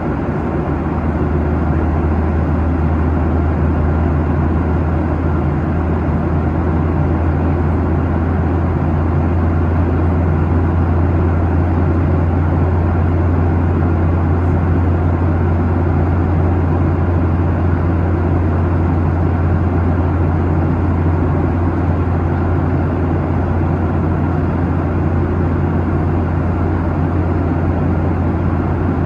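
Steady cabin noise of a Boeing 737-800 in cruise. Its CFM56-7B turbofan engines and the airflow make an even rushing noise with a strong, unchanging low hum.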